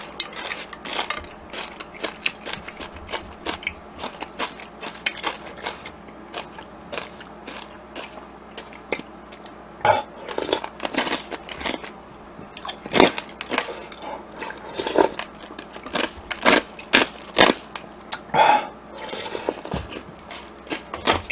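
Close-miked chewing and mouth noises of a person eating, a steady run of small wet clicks with several louder bites and sips scattered through.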